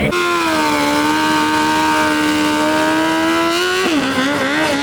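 Motorcycle engine revved hard and held at high, steady revs, then dropping slightly about four seconds in and wavering up and down.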